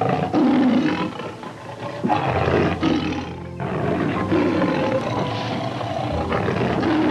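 Lion roaring repeatedly, several deep calls a couple of seconds apart, over background music.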